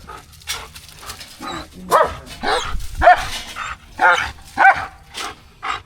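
A dog barking in short, yipping barks, about five of them in quick succession from about two seconds in.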